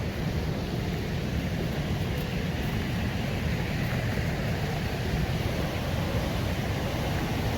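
Steady rushing of fast-flowing, foaming river water at a mill, an even roar with no breaks.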